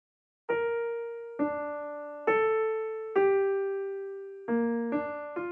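Background music: a keyboard playing a slow melody of single piano-like notes, about seven of them, each ringing and fading away.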